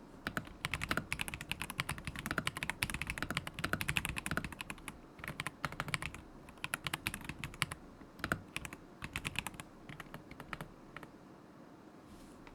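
Typing on a KZZI K75 Pro mechanical keyboard with Moment linear switches: fast runs of key clacks in bursts, with a short pause about five seconds in, stopping near the end.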